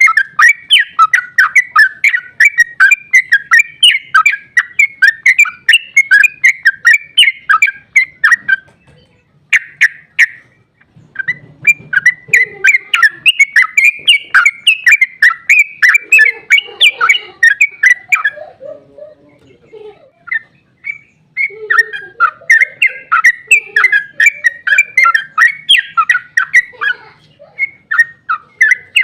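Yellow-vented bulbul (trucukan) singing long, rapid rolling runs of chattering notes, in three bouts with short pauses between. Fainter, lower calls sound under the second bout and again under the third.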